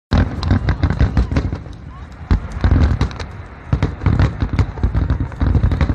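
Aerial fireworks display: shells bursting in quick succession, a dense run of bangs and crackles over a low rumble.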